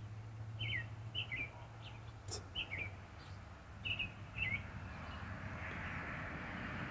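A small songbird giving short chirps that slide downward, mostly in quick pairs, over the first few seconds. A soft hiss rises after about five seconds.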